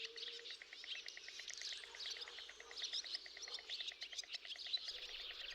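Faint chorus of small birds chirping and twittering, with a steady rapid pulsing, about ten pulses a second, running beneath for most of it.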